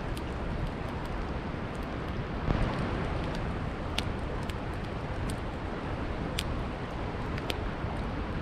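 Wood campfire crackling, with sharp irregular pops and snaps over a steady rushing of river water.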